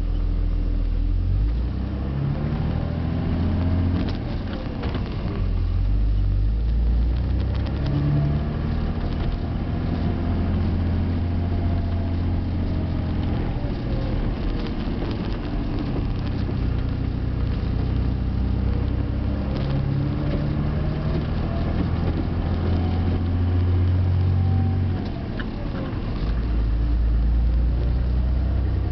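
Cummins 5.9 turbo-diesel in a 2007 Dodge pickup working hard under a heavy towing load, its 5-inch turbo-back exhaust with resonator heard from inside the cab with the windows up. The engine's pitch climbs and drops several times as it pulls up a steep incline through the gears.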